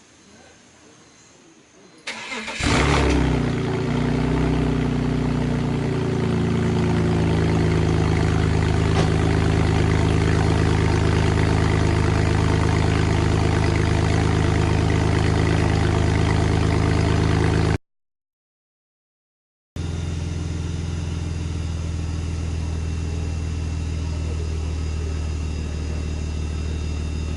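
BMW 330i engine with its resonator and muffler cut out, starting up: it catches with a loud burst about two seconds in, then settles into a loud, steady idle through the open, chopped exhaust. It cuts to silence for about two seconds past the middle, then the idle returns somewhat quieter.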